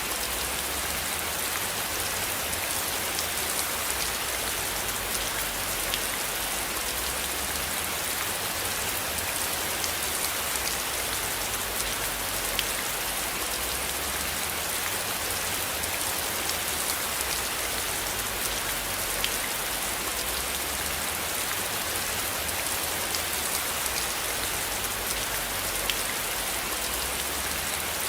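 Steady rain falling: an even hiss with scattered sharper ticks of single drops, over a low rumble that swells and fades slowly.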